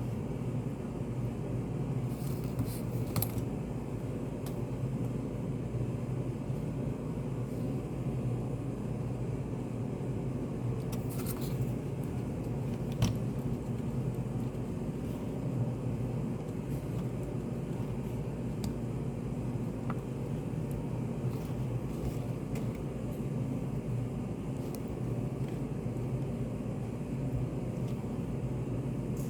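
Study cafe room ambience: a steady low hum, with a few faint, sharp clicks scattered through. The clearest click comes about 13 seconds in.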